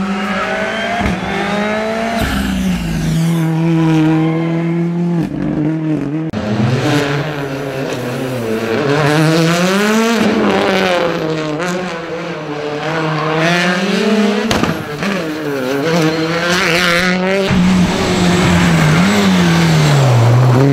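Rally car engines revving hard, the pitch climbing and dropping with each gear change, in a string of short clips cut together so the sound jumps abruptly every few seconds.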